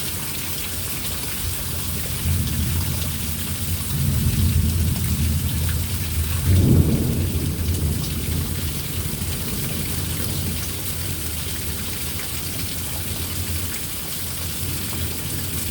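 Heavy thunderstorm rain pouring steadily, with a low rolling rumble of thunder that builds about two seconds in, is loudest about halfway through, and fades away a few seconds later.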